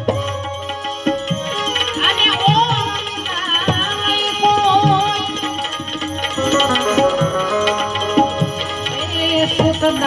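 Instrumental interlude of a Gujarati santvani bhajan: tabla keeping a steady beat under a wavering, ornamented melody line from an accompanying instrument.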